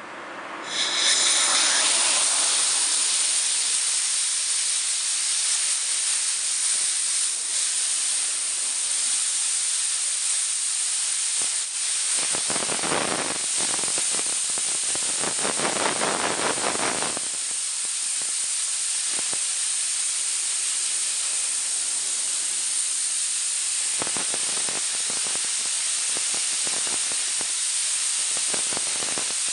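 Compressed-air blow gun hissing steadily at full pressure, switched on about a second in. The hiss fills out and deepens for several seconds in the middle and again near the end.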